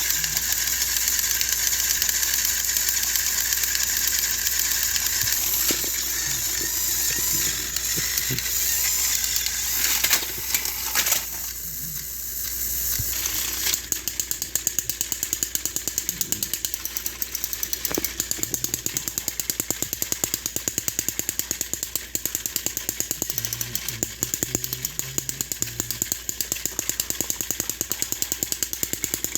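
Battery-powered TrackMaster toy train motors and plastic gearboxes whirring. A little over halfway in, the sound turns into a fast, even clicking.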